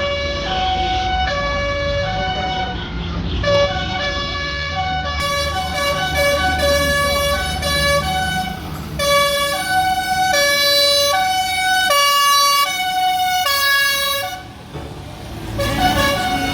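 A loud electronic melody of buzzy, held notes, stepping in pitch about twice a second, over the low running of tractor engines. The tune stops near the end.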